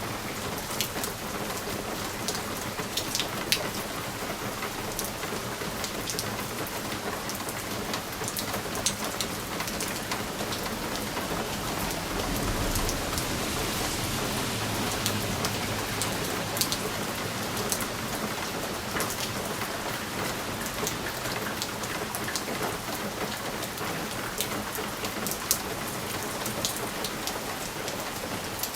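Steady rain on window glass: a constant patter with many sharp individual drops tapping. A low rumble swells and fades about halfway through.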